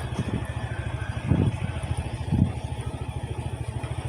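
Vehicle engine running steadily on the move, a low even throb with a fast regular pulse.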